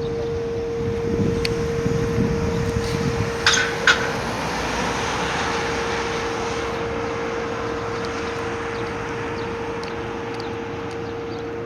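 Emergency vehicle traffic going by: a heavy engine's rumble fades away over the first few seconds, two short sharp loud sounds come about three and a half seconds in, then road noise swells and slowly dies away. A steady faint tone runs underneath.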